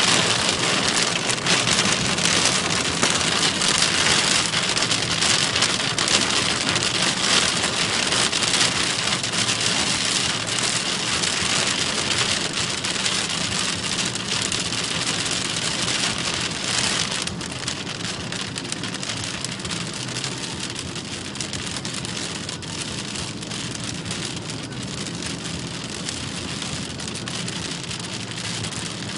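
Torrential rain beating on a moving car, a dense crackle of countless drops. It eases and grows quieter a little over halfway through.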